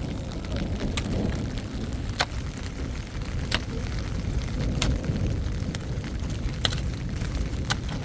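Wood fire crackling, with sharp pops about every second over a steady low rumble.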